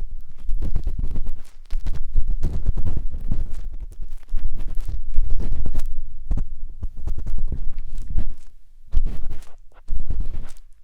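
A matchstick scraping and rubbing inside the silicone ear of a 3Dio binaural microphone, heard very close up as dense crackling strokes over heavy low rumbles. It pauses briefly a few times.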